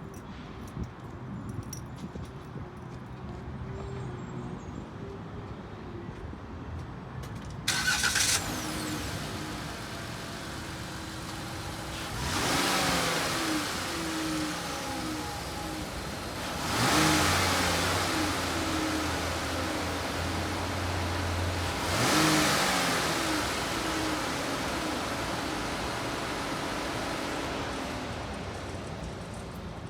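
2021 Ram ProMaster 3500 van's 3.6-litre V6 engine cranked and starting about eight seconds in, then idling. It is revved three times, each rev rising and falling back to idle.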